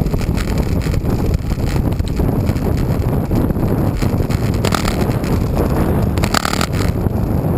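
Wind rushing over the microphone of a camera on a moving road bike, a steady low, loud noise, with two brief clicks or rattles about five and six and a half seconds in.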